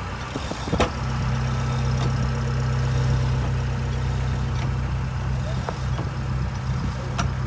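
A boat engine running steadily with a low hum, and a sharp click about a second in and another near the end.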